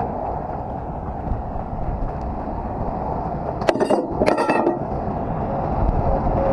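Tie-down chain gear clanking in two quick bursts of ringing metal-on-metal clinks about four seconds in, over a steady low rumble.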